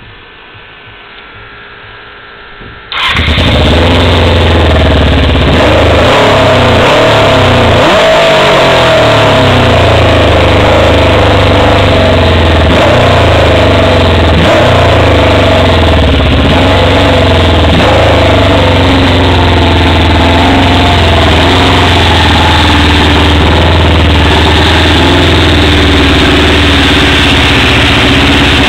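Honda CBR600 F4 sport bike's inline-four engine starting about three seconds in, then running loud and steady.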